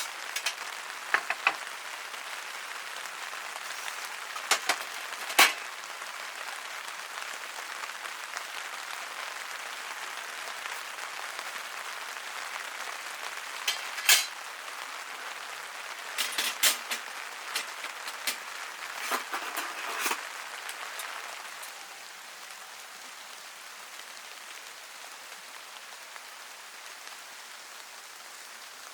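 Steady rain hissing, with scattered sharp clicks and knocks in the first two-thirds; the rain eases slightly about three-quarters of the way in.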